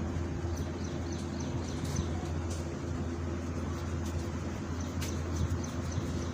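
Steady low hum with a background hiss, with faint, short, high chirps coming in small clusters.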